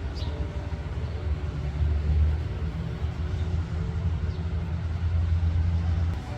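A low rumble that swells and eases, with faint steady tones above it.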